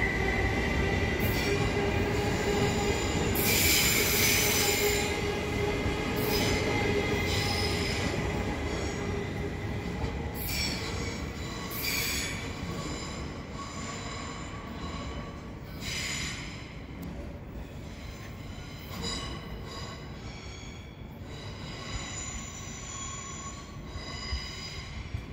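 Rail vehicle's wheels squealing against the rails in a series of short high-pitched screeches over a steady running hum, the whole sound slowly fading.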